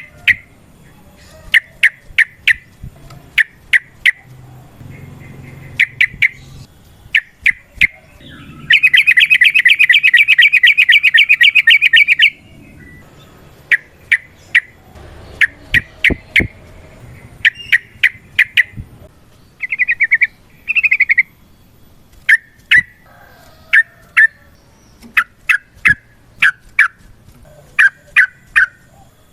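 Yellow-vented bulbul (trucukan) calling: short sharp notes in quick clusters of two to four, repeated every second or so. About nine seconds in comes a loud, rapid chattering rattle lasting some three seconds, the long 'ropel' burst.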